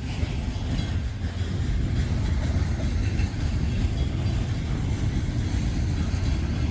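Freight train cars rolling past on the rails: a steady, heavy low rumble of wheels on track, with faint scattered clicks and squeaks above it.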